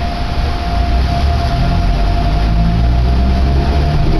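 Cabin noise of a Sangi Railway Hokusei Line narrow-gauge (762 mm) electric train on the move: a steady low rumble with a constant high hum over it.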